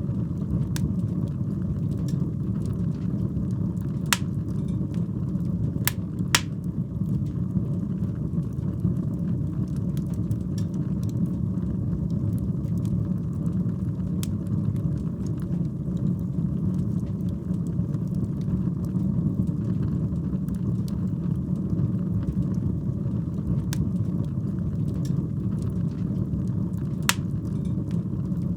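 Wood fire burning in a fireplace: a steady low rumble of flames with scattered sharp crackles and pops, the loudest about four and six seconds in and again near the end.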